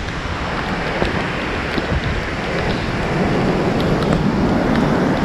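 Heavy downpour of rain with wind buffeting the microphone, a steady dense hiss.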